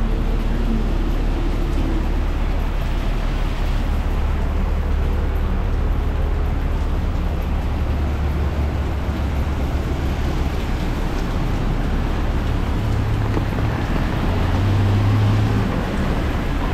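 City street ambience: a steady low rumble of traffic, with a slightly louder low hum for about a second near the end.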